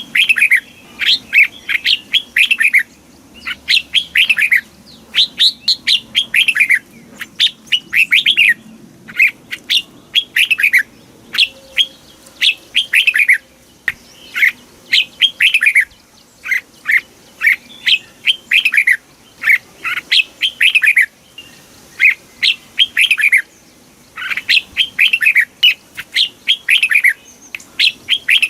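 Red-whiskered bulbul singing: short phrases of quick, down-slurred whistled notes, repeated one after another with brief pauses between them.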